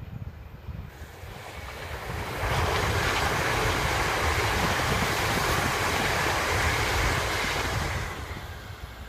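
Electric suburban train passing close at speed: a broad rush of wheels on rails that builds over the first two seconds, holds steady for about five seconds while the carriages go by, then fades away. Wind buffets the microphone as a low rumble throughout.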